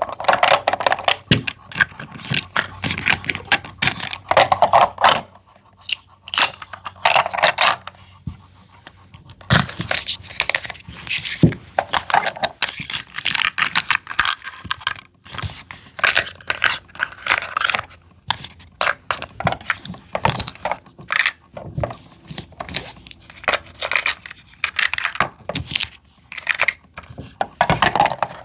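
Tiny plastic toy items and their packaging being handled: irregular rustling and scraping with many light clicks as pieces are picked up and set down.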